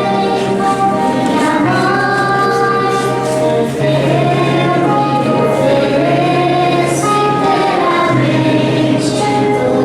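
Church choir and congregation singing a hymn, likely the offertory hymn, over instrumental accompaniment with long, held bass notes.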